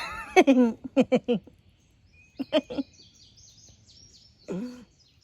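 A songbird singing a quick run of short, high chirping notes, starting about two seconds in, with brief bursts of people's voices over it.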